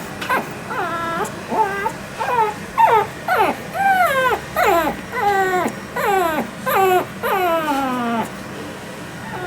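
Shih Tzu puppy whining over and over, a run of high, wavering whimpers; the later ones are longer and slide down in pitch.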